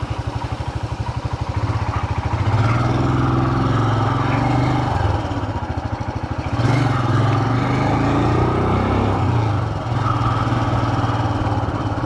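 Motorcycle engine under way, pulsing at low revs, then picking up about two seconds in; the revs rise and briefly drop twice, around five and ten seconds in.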